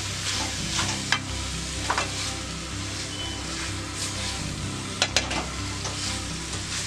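Chicken masala sizzling as it fries in coconut oil in a metal pan, stirred steadily with a spatula. A few sharp scrapes of the spatula against the pan come about one and two seconds in, and a quick pair about five seconds in.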